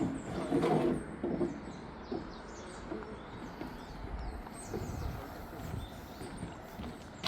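Footsteps knocking on a wooden boardwalk deck, irregular and loudest in the first second and a half, with small birds chirping.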